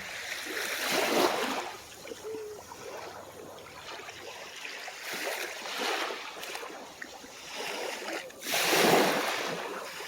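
Small calm waves washing onto the shore, the surge swelling and falling away every few seconds, the last and loudest one near the end.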